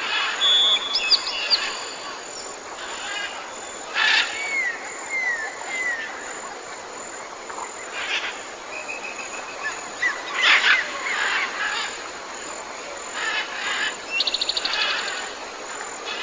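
Several wild birds calling and singing over a steady background hiss: scattered chirps, a run of short slurred whistles about four to six seconds in, and a fast rattling trill near the end.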